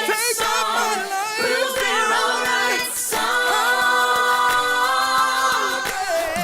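An unaccompanied vocal group singing in harmony, holding long chords.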